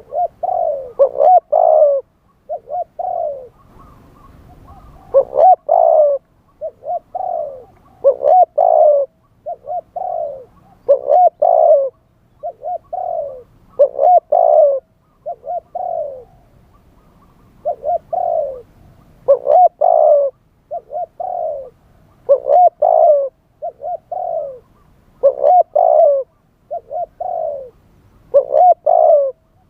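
Spotted dove (Thai decoy dove, nok khao yai) cooing loudly in repeated phrases of a few short coos, every two to three seconds, with short pauses between.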